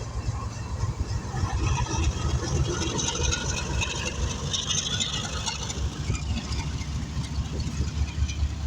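A heavy engine running with a steady low rumble, with a rattling, hissing clatter over it that swells in the middle and eases off near the end.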